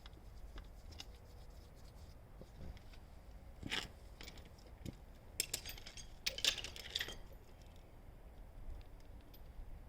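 Scattered metallic clicks and scrapes of hand tools working on an engine mount bolt, with a denser run of rapid clicks from about five and a half to seven seconds in.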